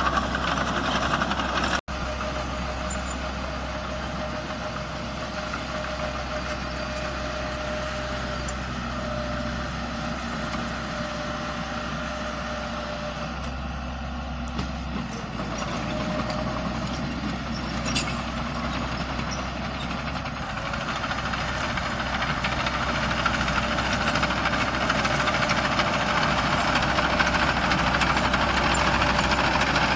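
Heavy diesel engines of earthmoving machinery running steadily with a deep low hum. There is a momentary dropout about two seconds in, and the sound grows louder over the last ten seconds or so.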